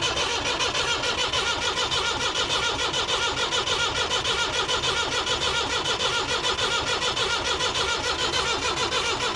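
Perkins 4.203 four-cylinder diesel cranking on its starter motor without firing, an even rhythmic churn of about five compression strokes a second. The injector pipes are cracked open to bleed air from the fuel system. It stops abruptly near the end.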